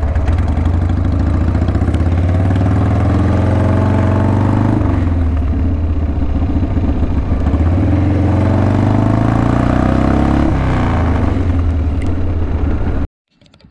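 Harley-Davidson Sportster XL883's air-cooled Evolution V-twin engine running, revved up twice with a rising pitch, then cut off suddenly near the end.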